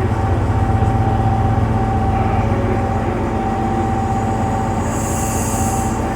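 A diesel cog-railway train running with a steady low engine drone and a constant whine. Near the end comes a short hiss of released air, lasting about a second.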